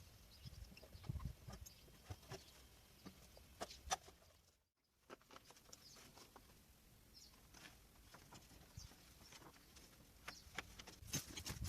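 Faint, scattered light clicks and taps, with a brief drop to silence a little under five seconds in.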